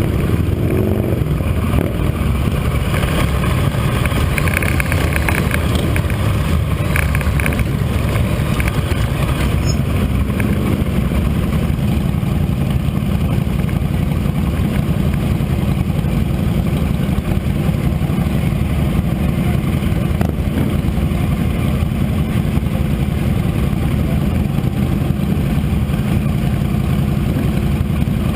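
Motorcycle engine running during a ride, a steady low rumble mixed with road noise that holds at one level throughout.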